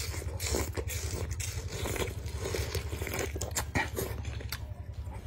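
Close-up chewing and biting of raw iba (bilimbi) fruit: an irregular run of short crunching and smacking mouth clicks. A steady low hum runs underneath.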